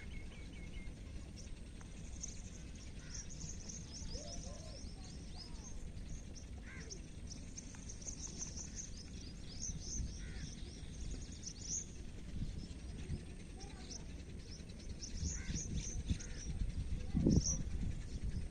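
Many small birds chirping in quick, high calls over a steady low background rumble. A louder, lower sound cuts in briefly about a second before the end.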